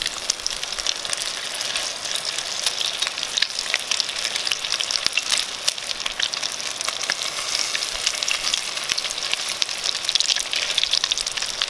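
Fish patties sizzling and crackling steadily in hot oil in a cast-iron Dutch oven as they are turned with a spatula.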